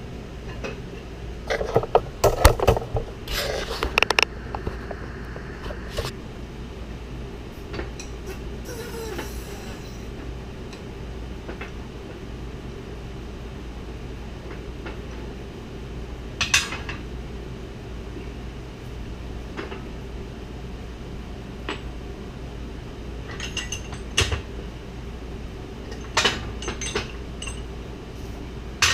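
Metal differential parts and tools clinking and clanking as they are handled, with a dense run of clanks near the start, a few single ones, and another group near the end, over a steady low hum.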